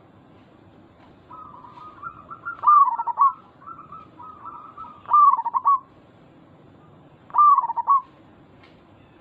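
Zebra dove (perkutut) cooing: a soft run of quick rippling notes, then three loud cooing phrases, each a few quick notes falling around the same pitch, spaced about two seconds apart.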